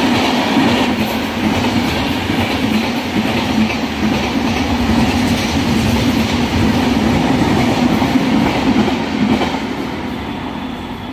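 Duronto Express passenger coaches passing at speed, a steady, loud rumble of wheels on the rails. The sound fades away near the end as the last coach draws off down the line.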